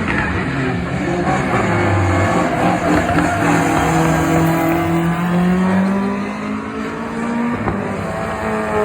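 Rally car engine running hard under load, its pitch climbing slowly and then dropping back near the end.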